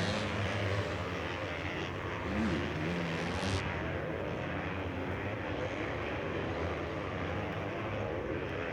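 Motocross bikes racing, their engines revving up and down as the riders work around the track.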